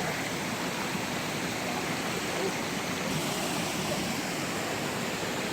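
A small creek waterfall, water rushing and splashing in a steady, even noise.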